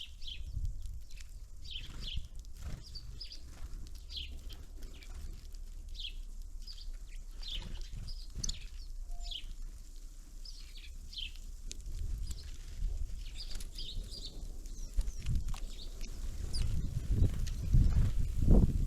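Small birds at a winter feeder giving many short, high calls. Low knocks and rumbling run underneath and grow louder near the end.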